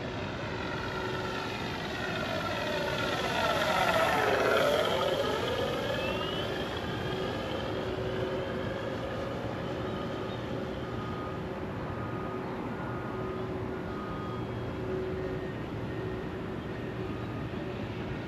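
Electric RC FlightLine Corsair warbird in flight, its propeller and onboard sound-system engine noise making a low pass. The drone swells to its loudest about four seconds in as the plane goes by, then eases back to a steady hum as it flies on.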